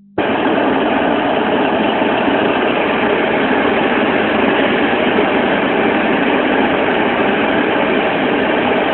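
Steady, even rushing noise of a car running, heard from inside the cabin.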